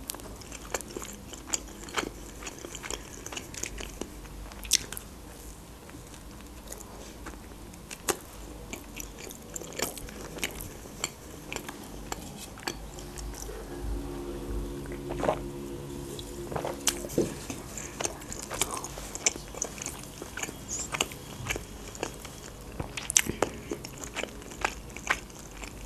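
Close-miked biting and chewing of baked Turkish pide, with many irregular sharp crunches and mouth clicks.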